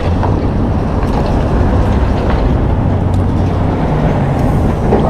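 Steady low rumble of a running vehicle, an even noise with a constant low hum.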